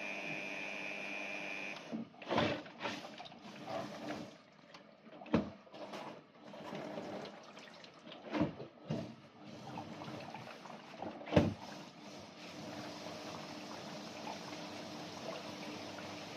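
Panasonic NP-TH2 dishwasher starting its cycle: a steady whine for the first two seconds gives way to water sloshing and spraying. A loud knock comes about every three seconds, four times, before the machine settles into a steady wash. These knocks at start-up are the abnormal noise that the owner is recording.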